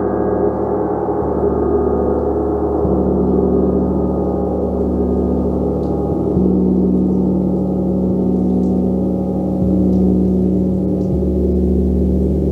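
A gong played continuously, a dense wash of overlapping ringing tones. The deep hum shifts every few seconds as the gong is struck again.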